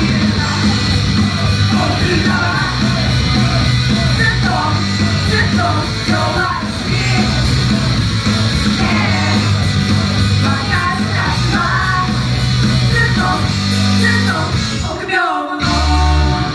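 Loud rock-style idol song performed live, with group singing and shouts over a heavy backing. About fifteen seconds in the music drops out, and one last low hit sounds just before the end.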